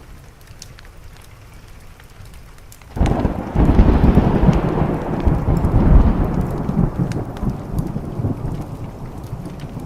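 A thunderclap breaks in suddenly about three seconds in and rolls on as a deep rumble, slowly fading, over steady rain and the faint crackle of a wood fire.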